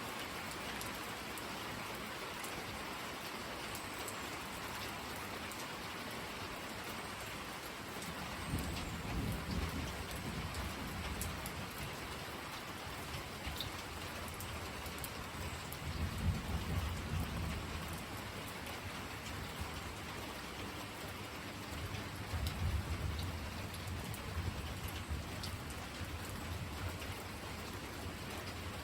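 Steady rain falling, with deep rumbles of thunder rolling in three times: about a third of the way in, just past halfway, and again around three-quarters of the way through.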